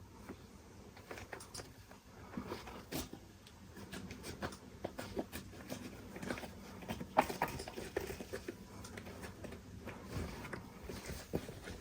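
Kittens playing and rummaging: a scatter of light, irregular taps, scratches and small knocks.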